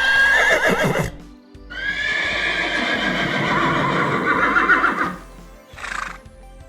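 Two high, wavering animal calls over background music: a short one right at the start and a longer one from about two to five seconds in, followed by a short breathy burst near the end.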